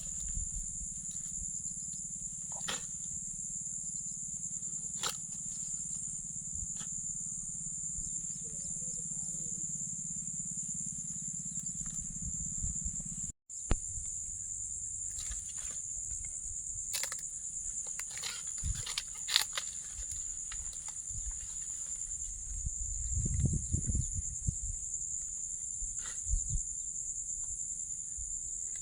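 Steady high-pitched chorus of insects shrilling without a break. A low rumble underneath drops away after a brief cut-out about halfway, with scattered clicks here and there.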